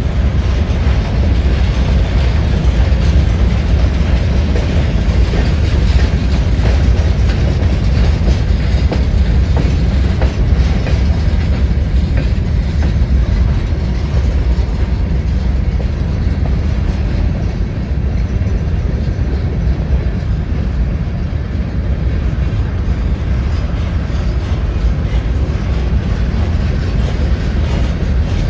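Freight train rolling past close by: a steady, loud rumble with the wheels clicking over rail joints throughout.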